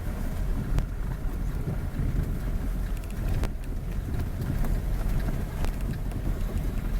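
Wind buffeting the microphone over a steady low vehicle rumble while on the move, with a few faint ticks.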